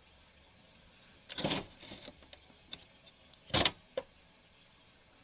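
Window air conditioner's vent control being worked, giving a few sharp clunks and clicks; the loudest clunk comes about three and a half seconds in.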